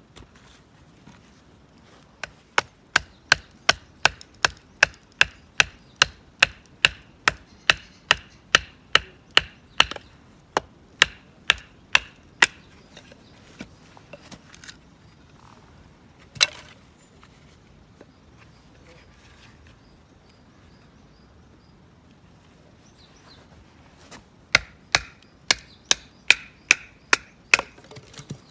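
Sharp, wooden-sounding chopping blows in quick succession, about two to three a second. The blows come in a long run, then stop apart from a single blow, and start again in a second run near the end.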